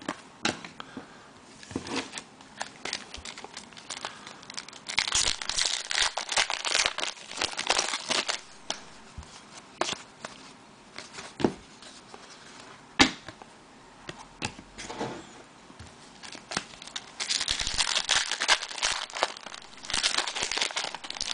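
Trading-card pack wrapper crinkling and tearing as it is opened, in two spells of rustling with a few sharp clicks between.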